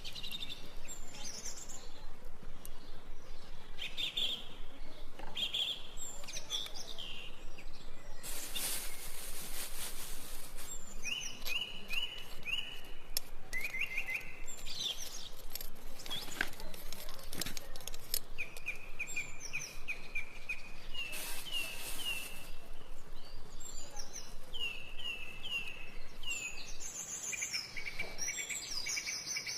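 Wild birds singing outdoors: several birds giving runs of short repeated chirps. A brief rush of noise comes about eight seconds in.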